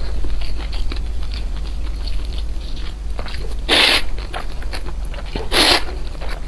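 Close-miked eating sounds: small wet chewing clicks throughout, with two louder crunching bites, one a little under four seconds in and another about two seconds later.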